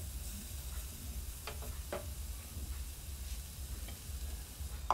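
Onion, tomato and spice masala sizzling steadily in oil in a frying pan, with a couple of light taps of a wooden spatula against the pan about one and a half to two seconds in.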